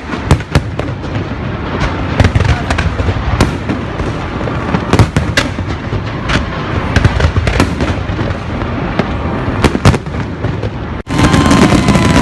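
Fireworks going off in quick succession: many sharp bangs and pops over a continuous crackle and rumble. Near the end the sound drops out for an instant, then comes back as a denser, louder wash of crackling.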